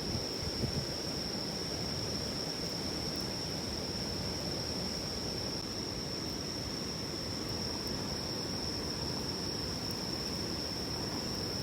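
A river murmuring steadily, with insects keeping up one continuous high-pitched trill over it.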